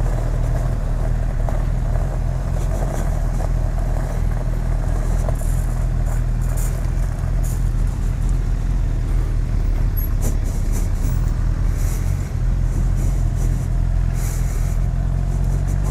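Honda CB1000R's inline-four engine, fitted with a Termignoni exhaust, running steadily, its pitch holding even.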